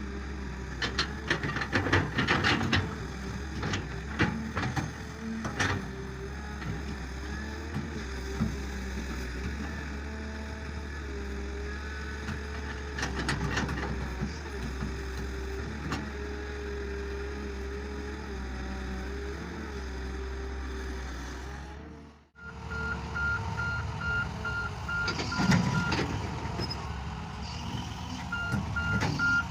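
A farm tractor's engine running steadily, with frequent clattering knocks. After a brief break about two-thirds of the way through, a reversing beeper sounds in evenly spaced beeps over the engine, twice.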